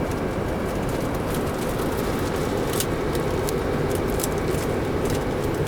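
Steady background noise of a large museum hall, with faint scattered clicks.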